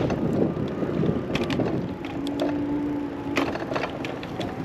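Bicycle in motion: a steady rumble of tyres on the path with small rattles and clicks from the bike, and wind on the microphone.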